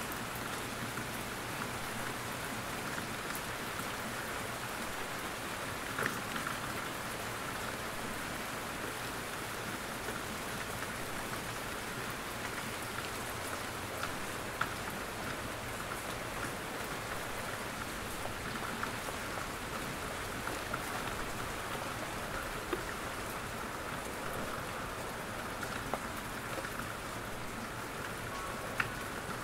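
Steady rain falling in a forest, with scattered louder single drops dripping from the trees now and then.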